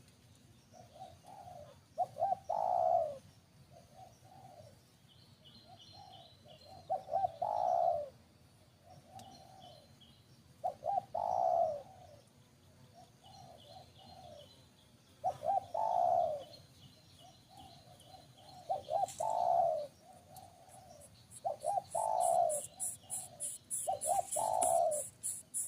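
A bird cooing: a short low phrase of a few quick notes ending in a longer note, repeated about every four seconds, with faint high chirps between. A rapid high ticking, several strokes a second, starts near the end.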